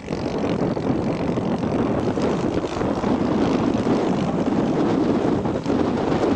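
Radio-controlled scale model airplane's engine and propeller droning steadily in flight.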